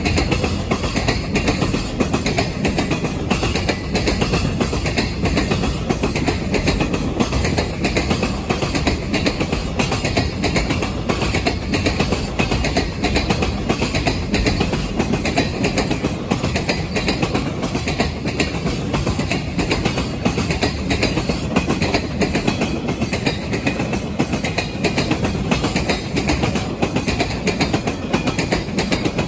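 Freight train rolling steadily past, its wagons' wheels clattering over the rail joints in a continuous clickety-clack.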